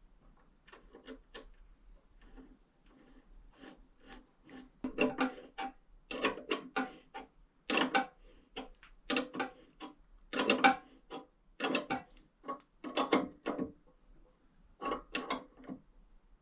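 A run of short metallic clicks, scrapes and clatters from hand tools and parts as the reproduction hand-change gear lever is fitted to a 1928 Velocette KNS. The sounds are sparse at first, come thick and loud in the middle, and pause near the end.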